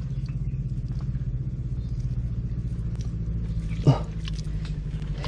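A steady low mechanical drone with a fine, even pulse, with a short grunt-like voice about four seconds in.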